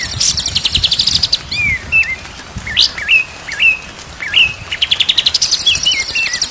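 Songbird song: a run of short whistled notes that swoop up and down, about two a second, with bursts of very fast, high buzzy trills at the start and again near the end.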